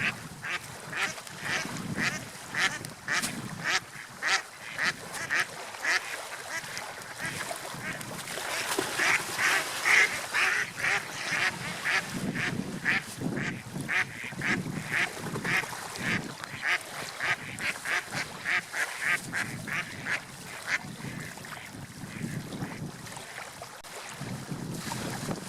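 Gulls calling over and over, short squawking calls about two a second throughout, loudest about nine to eleven seconds in.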